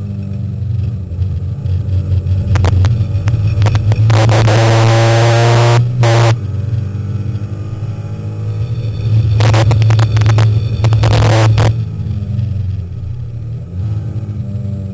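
Alpine A310 race car's engine heard from inside the cockpit, running hard on track. It is loudest in two stretches of heavy throttle, about four to six seconds in and again about nine to twelve seconds in, and eases off between them.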